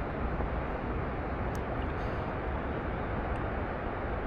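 Steady outdoor background noise with a faint click about one and a half seconds in.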